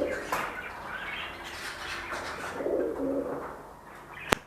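Caged birds calling with low, drawn-out notes, the clearest about three seconds in. A single sharp click comes near the end.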